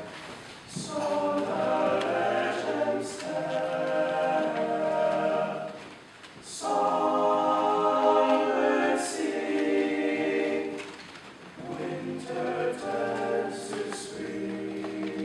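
Male a cappella vocal group singing in close harmony without accompaniment, sustained chords in phrases with short breaks between them.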